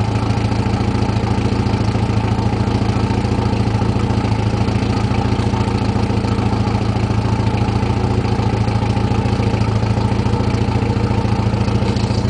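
Porsche 944 Turbo's turbocharged four-cylinder engine idling steadily through a Borla aftermarket exhaust, with no revving.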